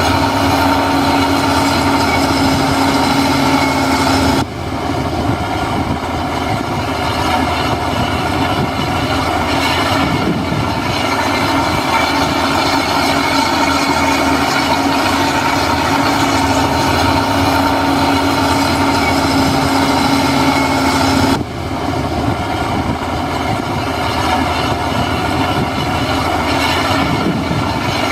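Heavy construction machinery's diesel engine running hard, with a steady whine over it. The sound drops abruptly twice, about four seconds in and again near the end, then builds back up.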